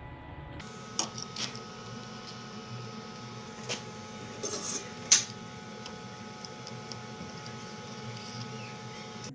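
A few sharp metallic clinks and knocks, the loudest about five seconds in, over a steady hum with a faint whine.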